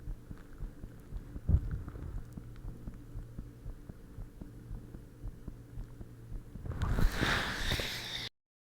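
The uploader's own heartbeat recorded up close: repeated low thumps over a steady low hum. Near the end a louder, rougher noise lasts about a second, then the sound cuts off suddenly.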